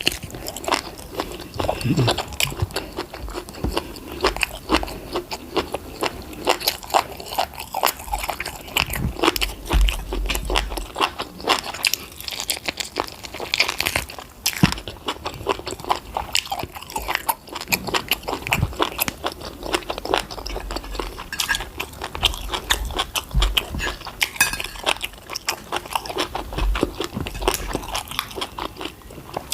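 Close-miked chewing and biting: wet mouth smacks and crunching of fried food, with many quick clicks all through.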